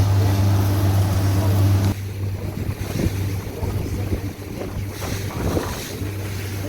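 Small boat's engine running with a steady low hum, under wind and sea noise. About two seconds in the engine sound drops away, leaving wind and water. The hum returns faintly near the end.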